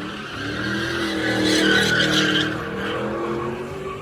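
A car engine running loud as the car goes by, swelling to its loudest about halfway through, then easing off.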